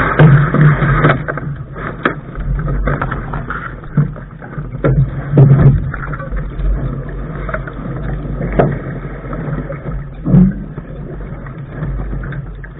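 Lark sailing dinghy under way: wind rumbling on the microphone, with irregular knocks and slaps of water against the bow.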